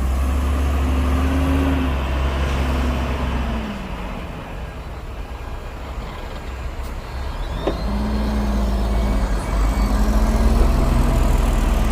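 Heavy diesel engine of earthmoving machinery running loud, easing off around four seconds in and picking up again about eight seconds in, with a brief sharp hiss or click as it comes back.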